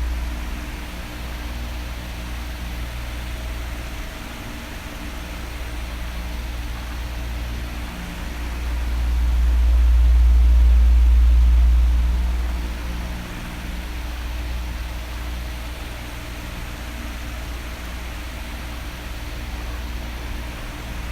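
Oscillating electric fan running steadily: an airy rush with a faint motor hum. The blast swells into a deep rumble of air on the microphone about ten seconds in, as the head sweeps past, then falls back.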